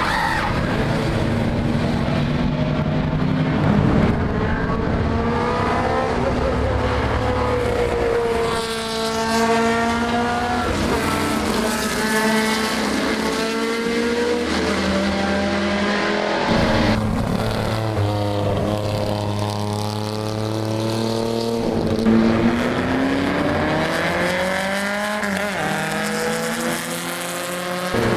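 Historic racing cars' engines at high revs on track: several cars passing one after another, their engine pitch climbing and falling with gear changes and as they go by. The sound changes abruptly about halfway through.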